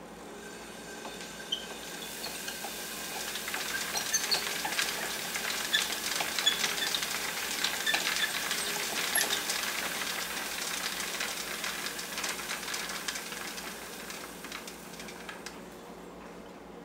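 Homemade Wimshurst electrostatic machine being hand-cranked to drive a Volta's Hailstorm: a steady hiss with many rapid, tiny ticks as pith balls are attracted to and repelled from the metal plates inside a plastic bottle. It builds over the first few seconds and dies away near the end.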